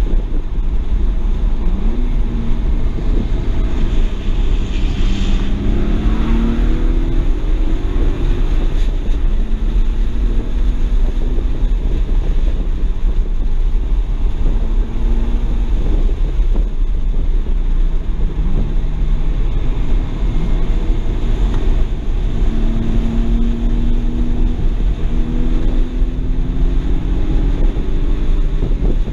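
2007 BMW 335i's twin-turbo N54 inline-six engine heard from inside the cabin under hard acceleration on a track. Its note climbs twice with rising revs, about five seconds in and again after about twenty seconds, over a heavy low rumble of wind on the microphone.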